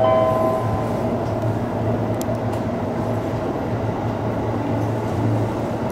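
Electric commuter train running along the line, heard from inside the cab: a steady rumble and hum of motors and wheels on the rails. A few held musical tones carry over from before and die away in the first second.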